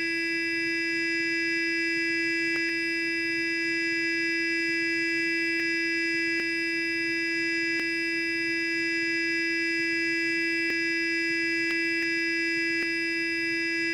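Sonic electric toothbrush buzzing steadily: a constant hum with a long row of overtones, and a faint tick now and then.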